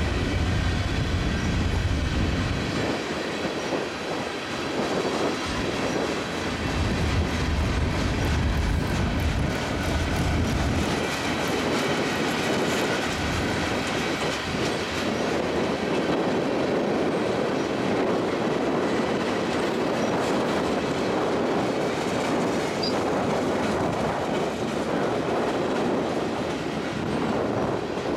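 CSX mixed freight's open-top garbage hoppers and gondolas rolling past: a steady rumble and clatter of steel wheels on the rails, with faint high wheel squeal. The low rumble is heavier for the first ten seconds or so.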